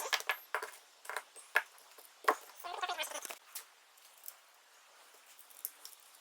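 Small metal clicks and short scrapes from KZ1000 carburetor parts and a small hand tool being handled as the needle-jet bolts are fitted. There is a cluster of them in the first three seconds or so, then only a few faint ticks.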